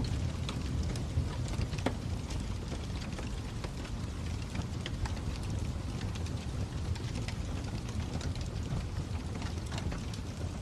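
Crackling fire: a low steady rumble with irregular pops and snaps scattered throughout.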